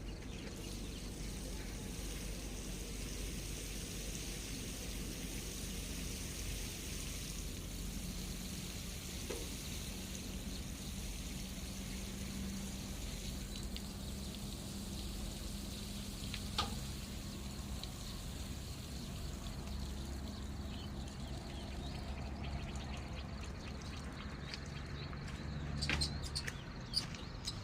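Water running or pouring steadily.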